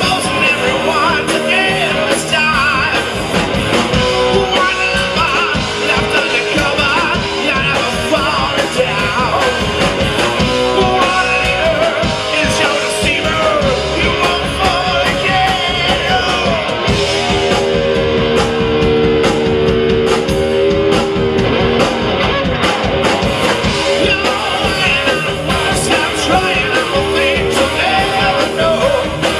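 Live rock band playing loudly, with electric guitars, drums and a singer; a long held note comes about two-thirds of the way through.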